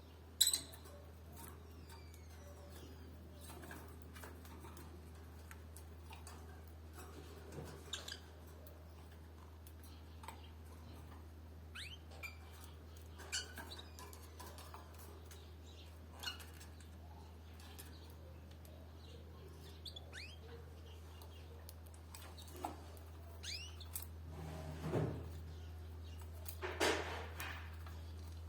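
Canaries giving short, scattered chirps and calls every second or two, with a few small clicks and rustles, over a steady low electrical hum. The loudest calls come near the end.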